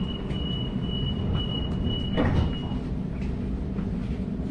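Waratah train's door-closing warning, a steady high tone, with the sliding passenger doors shutting with a thud about two seconds in; the tone stops soon after, over a low steady hum of the stationary train.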